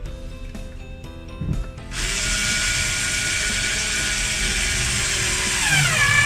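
Electric drill-driver running a screw in. It starts about two seconds in and runs steadily, then its pitch dips near the end as it comes under load, before it stops.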